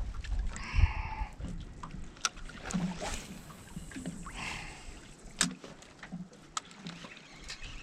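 A small fishing boat drifting: water slaps and knocks against the hull, with scattered clicks from gear in the boat and two short rasping sounds, about a second in and at about four and a half seconds.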